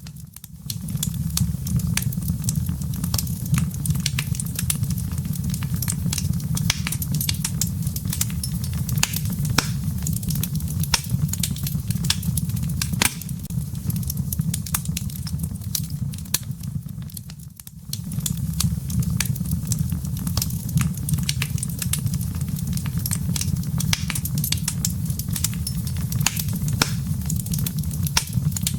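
Wood fire burning in a fireplace: a steady low rumble of flame with dense, irregular crackles and pops of burning firewood. The sound dips briefly at the very start and again about 17 seconds in.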